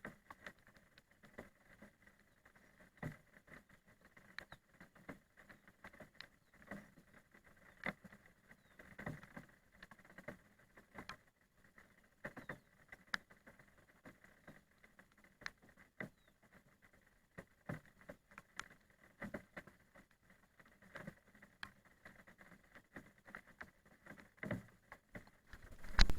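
Scattered raindrops tapping irregularly, a few drops a second over a faint hiss, with a louder knock near the end.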